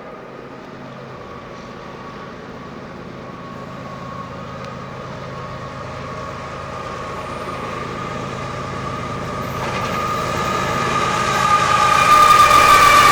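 Lead GE ES44AC/H and ES44DC diesel locomotives of a freight train approaching. Their engine drone and a steady high whine grow steadily louder, with more tones joining the whine over the last few seconds as the locomotives draw close.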